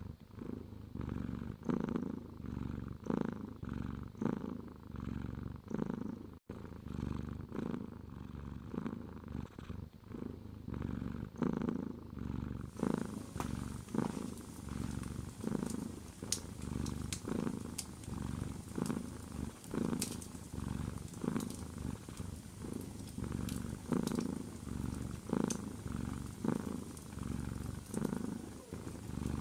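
Domestic cat purring close up, in a steady rhythm of pulses about once a second. From about halfway, faint crackling of a fireplace fire joins in.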